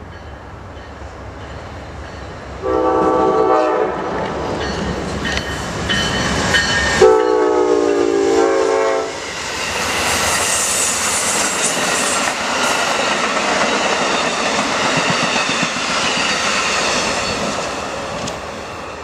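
Amtrak passenger train behind two GE P42 Genesis diesel locomotives sounding its horn twice, a short blast about three seconds in and a longer, louder one about seven seconds in. The locomotives and bi-level cars then pass close by with steady wheel-on-rail noise and clickety-clack, fading near the end.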